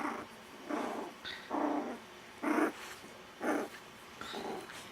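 Miniature dachshund puppy growling in play: a string of short growls, about one a second.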